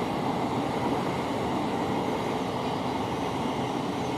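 Steady running noise of a train passing along the line, wheels on rail, holding an even level throughout.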